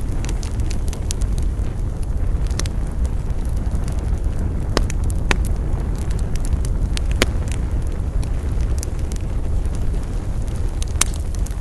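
Wood fire burning: scattered sharp crackles and pops over a steady low rumble, with a few louder pops about five, seven and eleven seconds in.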